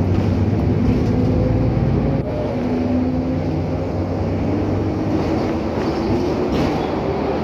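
Scania K310UA articulated bus's diesel engine and drivetrain running under way. About two seconds in, the level dips and the engine note changes, then the pitch climbs slowly as the bus picks up speed.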